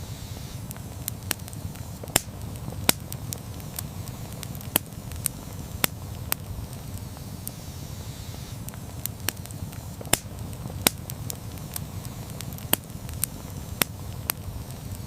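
Wood campfire burning with a steady low rumble of the flames and irregular sharp crackles and pops from the burning wood, one or two a second.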